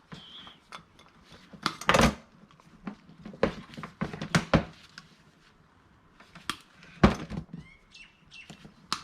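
Electrical cords and plugs being handled and sorted, making irregular clicks and clatters of plastic and metal. There is a louder knock about two seconds in and another about seven seconds in.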